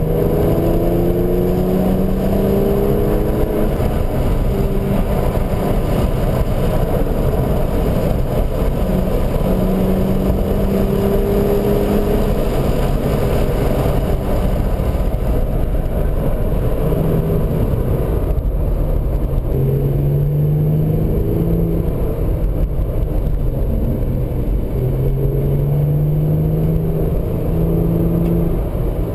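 Car engine heard from inside the cabin while driving, its note climbing in pitch and dropping back several times as it accelerates and eases off, over steady road noise.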